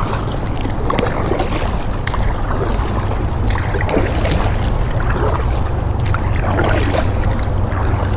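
Paddle strokes splashing and knocking around a small paddled fishing boat, a few times, over steady wind rumble on the microphone.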